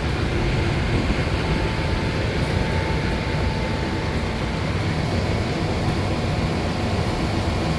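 Amtrak Auto Train rolling slowly past with its brakes applied, a steady low rumble of the Superliner cars on the track. A faint thin whine rises out of it about a second and a half in and fades after about two seconds.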